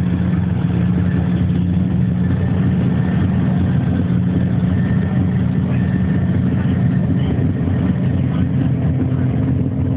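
Monster truck engine running steadily at an even, low pitch, without revving.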